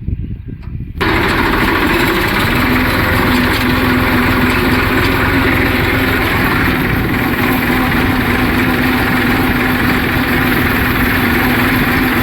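Tractor engine running steadily while pulling a land leveller, coming in abruptly about a second in, with a steady low hum under the engine noise.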